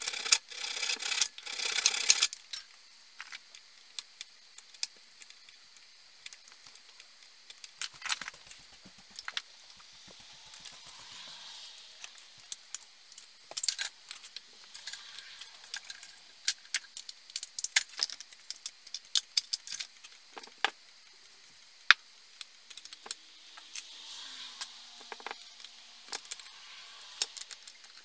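Small metal parts and hand tools clinking and rattling as they are handled on a workbench: a dense rattle in the first two seconds, then scattered sharp clicks and clinks, with faint hissing twice.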